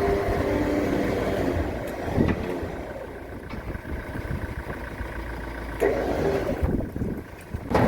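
A motor running with a steady hum that fades after the first couple of seconds, with a brief knock about two seconds in and the hum returning briefly about six seconds in.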